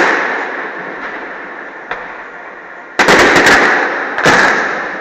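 Aerial firework shells bursting in a display. A single sharp bang comes about two seconds in, then a loud cluster of rapid bangs at three seconds and another about a second later, each trailing off slowly.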